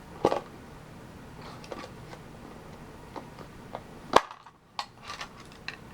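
A stuck small metal collector's tin being worked open by hand: scattered light clicks, then one loud sharp snap about four seconds in, followed by a few lighter clicks as it is handled.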